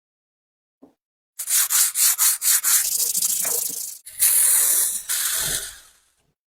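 Abrasive rubbing on the pliers being restored: a quick run of short back-and-forth strokes, about five a second, then two longer hissing passes of about a second each.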